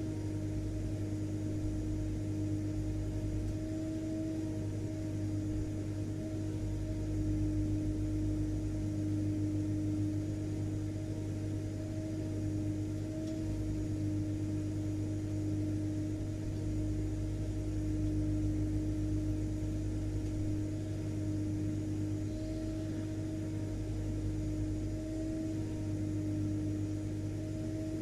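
Vacuum cleaner motor running steadily: a constant hum with one steady tone over a faint hiss, wavering slightly in level.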